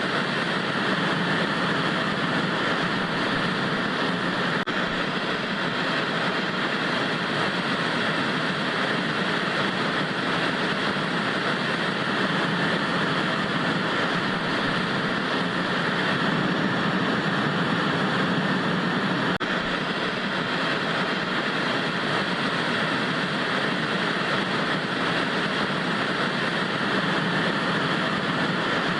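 Static from an untuned analog television: a steady, even hiss of white noise that does not change.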